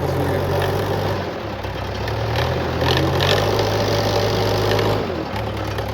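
Diesel engine of a JCB or tractor running steadily at low revs, its pitch stepping up and down a few times.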